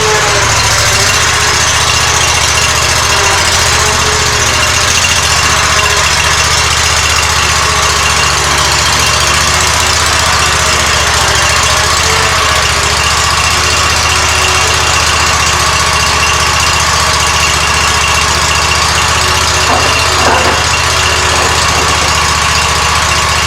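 Gravely Pro-Turn 252 zero-turn mower engine running steadily, with a couple of brief clunks near the end.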